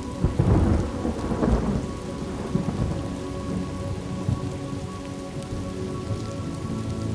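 Thunderstorm: a roll of thunder breaks just after the start, rumbling with two loud swells in the first two seconds and fading away by about three seconds in, over steady rain.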